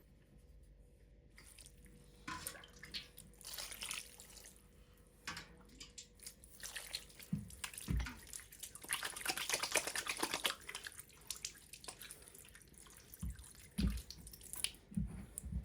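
Hands mixing ground meat with spices, garlic and breadcrumbs in a bowl: irregular wet clicks and squishes, denser for a couple of seconds about nine seconds in, with a few soft thumps.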